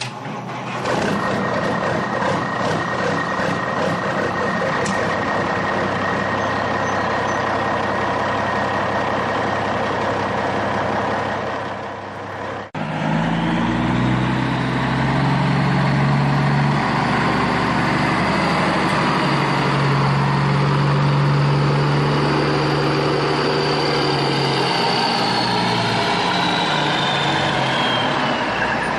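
Heavy truck engine running steadily; after an abrupt cut about halfway through, a louder, deeper engine note takes over, with a high whine that falls away near the end.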